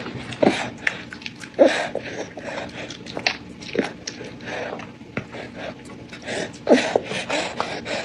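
A baby eating: wet mouth sounds and small clicks, broken by short vocal noises several times.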